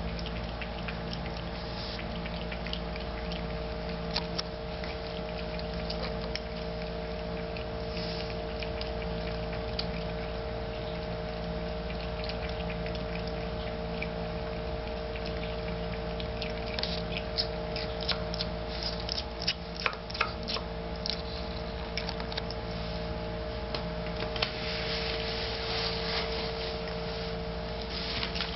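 Cat drinking water, lapping in irregular wet clicks, with a denser run of laps about two-thirds through, over a steady hum.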